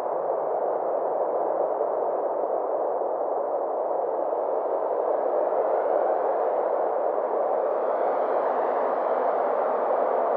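Synthesized space-ambience drone: a steady, muffled rushing hiss held in the low-mid range. From about halfway through, a faint high shimmer slowly sweeps up and down.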